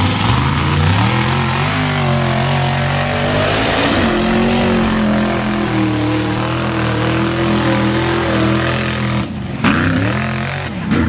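Drag truck engine at full throttle on a sand drag pass. Its pitch climbs in steps through the upshifts over the first few seconds, then holds high. It drops off about nine seconds in and revs up again near the end.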